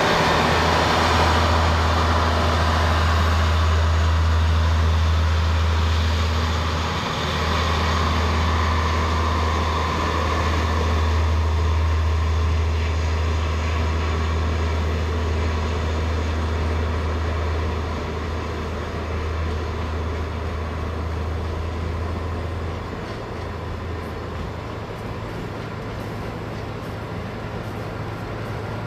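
Diesel train running, its engine a steady low drone over the rumble of the train, which drops off and grows quieter about two-thirds of the way through.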